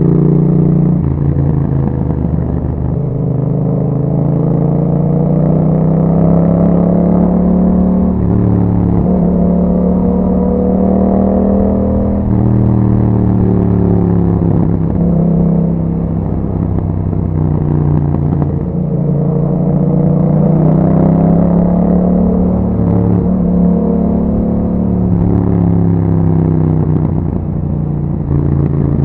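2021 Yamaha MT-07's 689 cc parallel-twin engine running through an Akrapovic exhaust while riding, its pitch climbing and dropping again and again as the bike accelerates and eases off, with deeper dips about twelve and nineteen seconds in.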